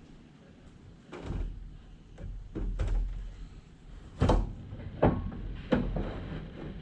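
A series of about six knocks and clunks, irregularly spaced, the loudest about four and five seconds in: parts and tools being handled and set down while refitting a truck's radiator and coolers.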